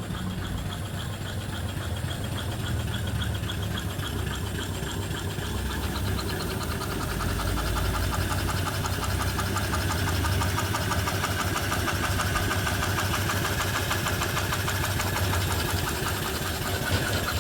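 Reproduction antique single-cylinder steam engine (3-inch bore, 4-inch stroke) running steadily under steam, a fast, even beat over a low hum. It gets slightly louder about six seconds in.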